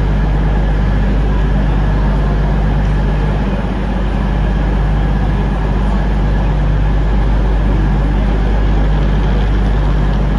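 CrossCountry class 220 Voyager diesel multiple unit standing with its underfloor diesel engines idling, a steady low drone with no change in pitch.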